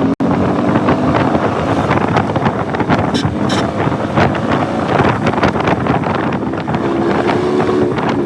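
Mercedes-Benz SLK 55 AMG V8 engine running steadily, buried in heavy wind noise on the microphone; the engine note rises a little about seven seconds in.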